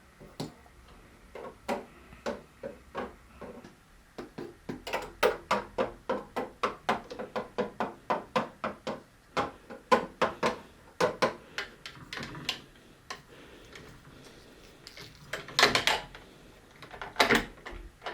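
Light, irregular clicks and knocks of hard toy pieces being handled and set down, a few a second, with two louder clatters near the end.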